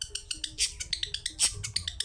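Long-tailed shrike (cendet) song: a fast chatter of short, high notes, about nine a second, over a faint low stepping tune.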